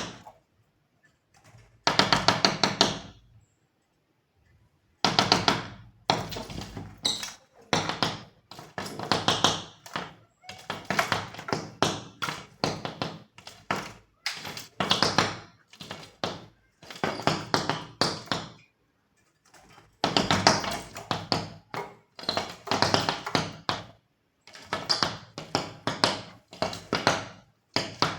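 A bird pecking at window glass, attacking its own reflection as if it were a rival bird: bursts of rapid taps on the pane, separated by short pauses.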